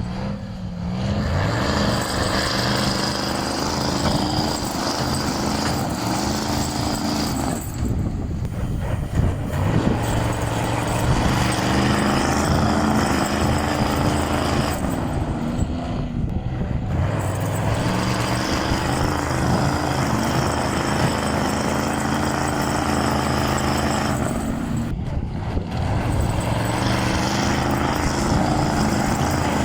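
Truck engine running steadily under way, its note dropping and then picking up again three times.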